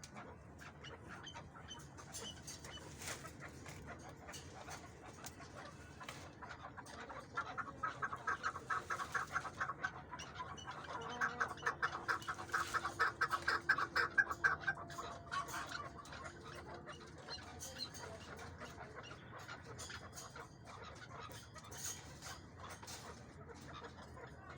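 Chukar partridge giving rapid runs of clucking calls: a short run about a third of the way in, then a louder run lasting several seconds. Scattered light clicks can be heard as well.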